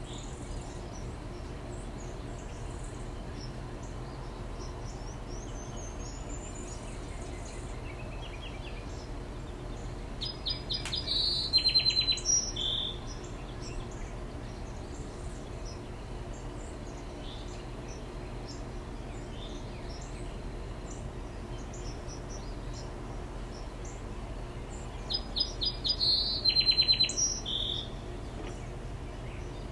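A backyard songbird sings two loud, rapid, high-pitched songs, one about ten seconds in and one near the end, each lasting two to three seconds. Fainter bird chirps come and go over a steady low background hum.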